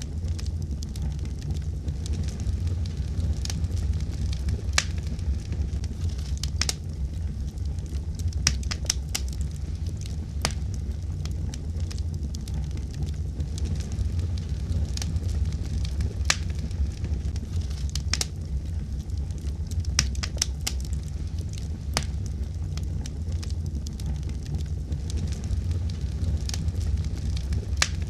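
Fire burning in a fireplace: a steady low rumble of flames with irregular sharp crackles and pops throughout.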